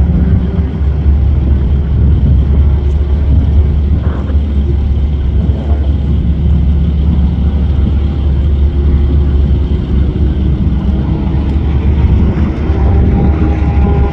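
Several track-day cars' engines running at speed on a road course, heard from the side of the track over a steady low rumble. The engine notes slide in pitch as the cars pass, most plainly near the end.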